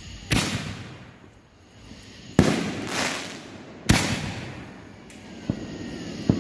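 5-inch canister fireworks shells going off: three loud booms about one and a half to two seconds apart, each trailing off in a rumbling echo over a second or so, then two lighter pops near the end.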